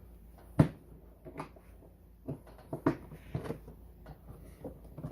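A sharp knock about half a second in, then a handful of lighter knocks and clicks: plastic parts of a battery-powered ride-on toy truck being handled and pushed into place.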